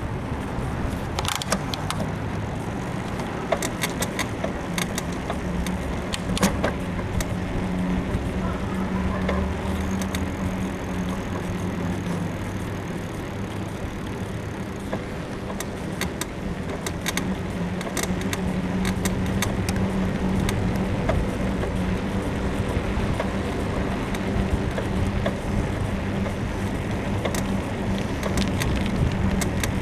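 Bicycle riding along a road: steady tyre and wind noise with road traffic, broken by frequent irregular creaks and clicks from the bike's frame suspension, which the rider puts down to a worn suspension bushing.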